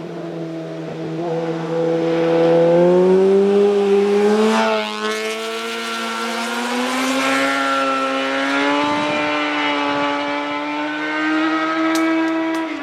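Yamaha FZ6N's inline-four engine through a Two Brothers slip-on exhaust, pulling under acceleration. The revs climb, drop at a gear change about five seconds in, then rise steadily again until near the end. It is loudest in the first few seconds.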